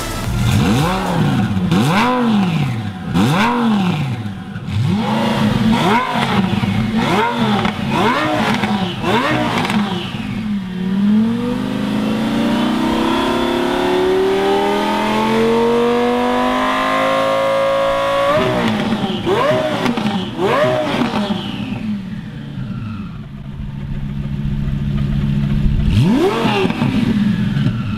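Twin-turbo Lamborghini Gallardo V10 revving through its newly fitted X-pipe exhaust, run to test the new pipe for leaks. A string of quick throttle blips comes first, then the revs climb slowly for about eight seconds and drop back sharply, followed by a few more blips, a stretch at idle, and one last blip near the end.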